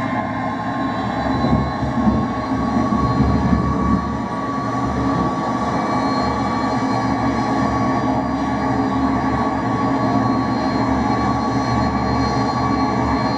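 McDonnell Douglas DC-10 jet engines at takeoff power: a steady, loud rumble with a held whine near 1 kHz. It is a little rougher in the first few seconds.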